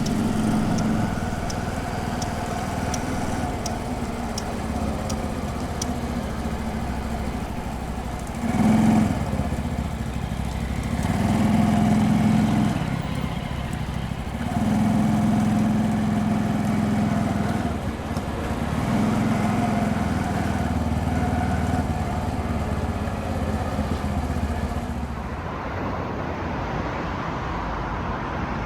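Honda Dax 125's single-cylinder engine running while riding, mixed with road and wind noise. The engine gets louder several times as the throttle opens and then settles back.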